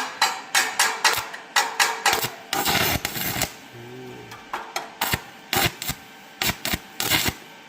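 Quick metallic knocks on a steel weld, about three a second, then a dense scraping burst about a second long, then a few scattered sharp knocks near the end: a welder's chipping hammer and tools working a fresh stick-weld bead on steel box section.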